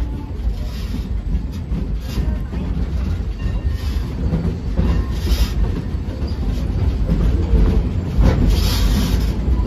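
Steady rumble and clickety-clack of a narrow-gauge passenger car rolling along the track, heard from aboard the train, with a few sharp clanks.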